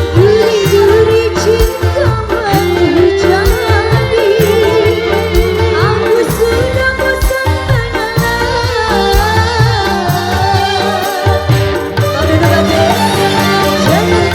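Live band music with a steady beat and a wavering melody line over it.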